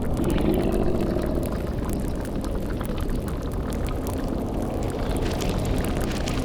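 Layered sound-effect ambience: a bubbling cauldron and crackling fire over a steady low rumbling drone, with a low moaning swell in the first second and a half.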